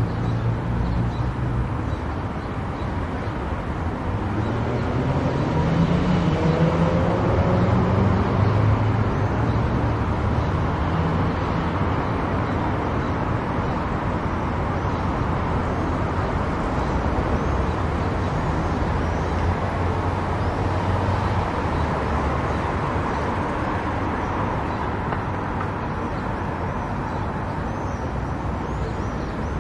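A car driving on the road: steady tyre and engine noise, with the engine note rising from about four seconds in as the car speeds up.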